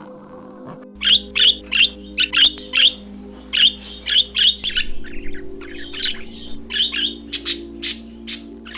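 A bird calling in a rapid series of short, sharp squawking calls, about two to three a second, starting about a second in, over steady low background tones.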